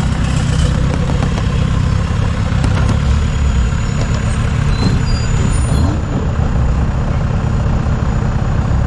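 Off-road 4x4's engine running steadily at low revs, a continuous low rumble, as the vehicle crawls down a steep slope.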